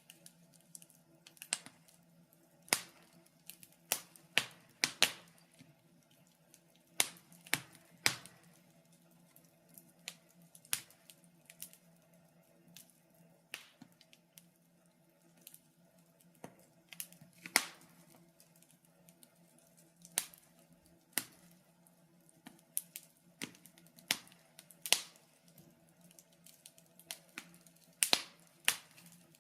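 Wood fire in a fireplace crackling: irregular sharp pops and snaps, about one a second and unevenly spaced, some much louder than others, over a faint steady hum.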